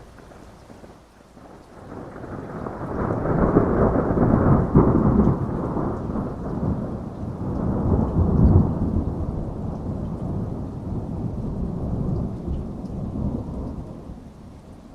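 A long rolling thunder rumble over steady heavy rain. It builds about two seconds in, swells twice and dies away near the end.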